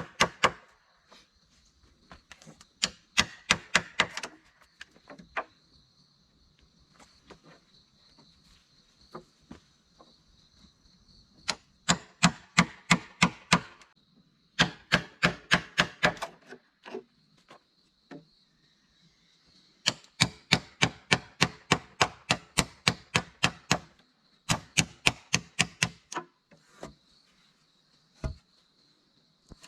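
Quick chopping strikes of a blade, about four to five a second, in several runs of a few seconds each with pauses between. A steady high insect drone, like cicadas or crickets, continues behind.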